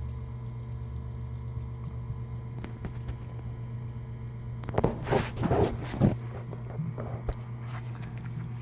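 Small sewage pump motor running with a steady hum. About halfway through there are a couple of seconds of louder rustling and knocking.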